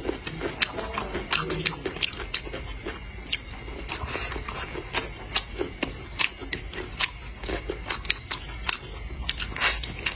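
A person chewing a mouthful of broccoli close to the microphone: a steady run of irregular wet mouth clicks and small crunches.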